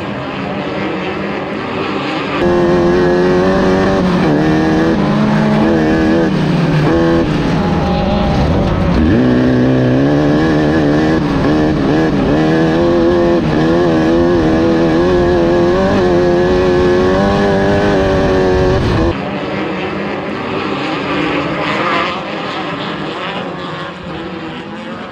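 Off-road race car engines running hard, one close and loud, its pitch rising and falling as the throttle is worked. The loud engine sound starts abruptly a couple of seconds in and cuts off abruptly near the end, leaving lower engine noise.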